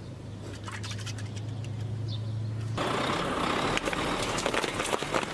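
Truck engine running with a steady low hum and scattered clicks. About three seconds in, a louder rushing noise full of crackles sets in suddenly.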